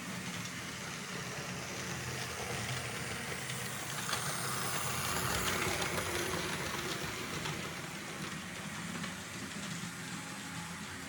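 Märklin H0-scale model train running on the layout's track, a steady whirring and rolling that swells louder about four seconds in and fades back after about seven seconds as the train passes nearer.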